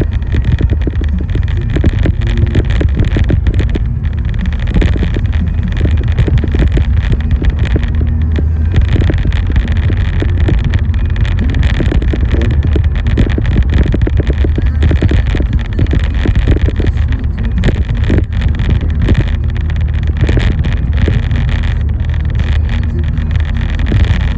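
Vehicle driving in rain: a steady low rumble of engine and road, with a dense scatter of sharp ticks from rain striking the vehicle.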